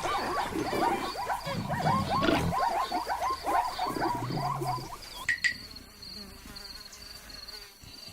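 Insects chirping in short pulsed trains throughout, over a busy chatter of quickly repeated animal calls that stops about five seconds in, leaving mostly the insects.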